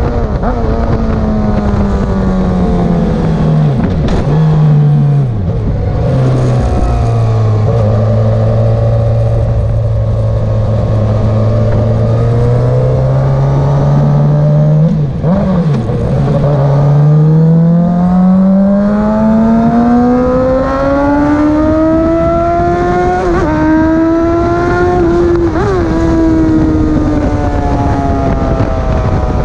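Motorcycle engine lapping a race track. The revs drop in steps over the first few seconds as it downshifts, hold low and steady for several seconds, then climb, with quick breaks for upshifts near the end, before falling off again.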